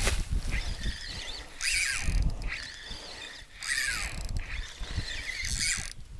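Wild birds calling outdoors, with several falling whistled calls, over an uneven low rumble of wind on the microphone.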